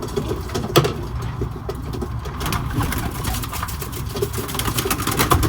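White homing pigeons cooing, with a run of quick flaps and rustles as birds are handled.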